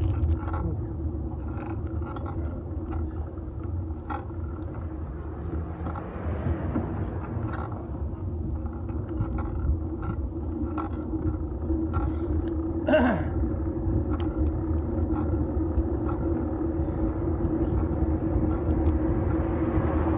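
Riding noise of a fixed-gear bike picked up through a metal handlebar phone mount: a steady low road rumble with a hum and light clicks and knocks every second or so. A brief falling whoosh comes about two-thirds of the way through.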